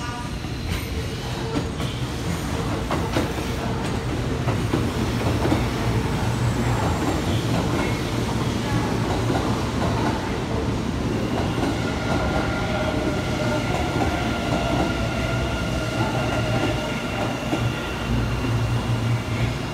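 Electric trains running through a station: a steady low rumble of wheels on rail, with clicks as the wheels cross joints and points. About eleven seconds in, a high steady whine comes in over the rumble.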